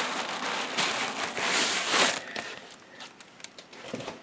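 Packing material being pulled off a 3D printer's carton: a rustling, scraping rush that peaks about two seconds in, followed by a few light clicks and knocks as the pieces are handled.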